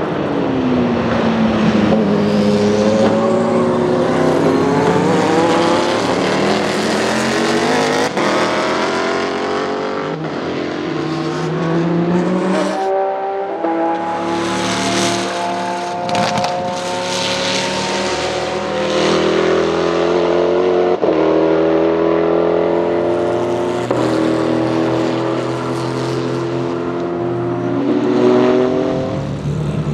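Saleen S7-R GT1's 7.0-litre naturally aspirated V8 racing engine. Its note first falls in pitch, then climbs again and again through several gear changes as the car accelerates hard.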